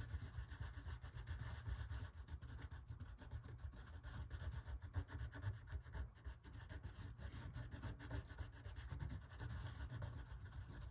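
Faint, quick back-and-forth scratchy rubbing of a colored pencil pressed hard onto textured illustration board. The white pencil is being worked over layered brown, terracotta and red pencil to blend them.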